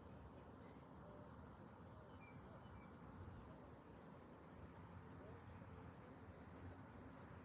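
Faint steady high-pitched insect chorus over a low, distant rumble from the approaching freight train, with a few faint bird chirps.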